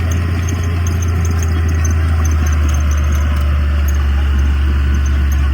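Heavy earthmoving machine's diesel engine running steadily under load, a deep continuous drone with faint light ticking over it.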